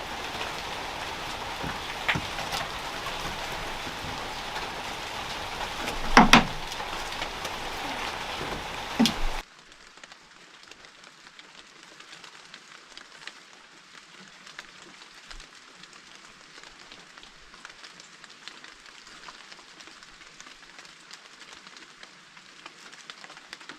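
Steady rain falling, with a few louder knocks, the loudest about six seconds in. About nine seconds in it cuts off abruptly to a much quieter faint hiss with light ticks.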